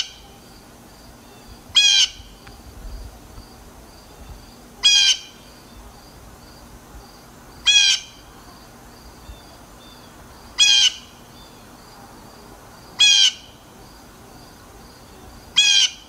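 A bird giving a short, loud call about every three seconds, seven calls in all, over a faint, evenly repeating high chirp in the background.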